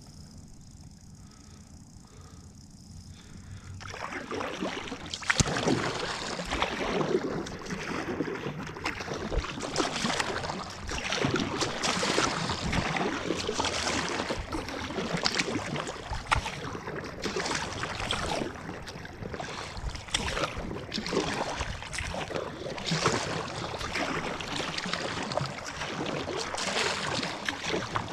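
Kayak paddle strokes in lake water, with regular splashing and water sloshing against the hull. It starts about four seconds in, after a quieter stretch.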